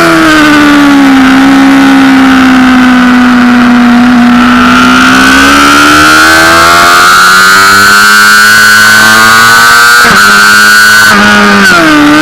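Honda CBR600RR inline-four engine heard onboard, very loud: the revs fall at the start and hold low for a few seconds, then climb steadily, with a quick drop and recovery near the end at a gear change.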